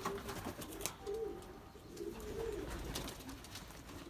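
Racing pigeons cooing: several low, wavering coos, with faint ticking in the background.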